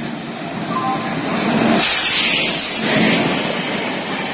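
An electric locomotive hauling LHB passenger coaches passes at speed. The sound builds to a loud rush about two seconds in as the locomotive goes by, then settles into the steady running noise of the coaches.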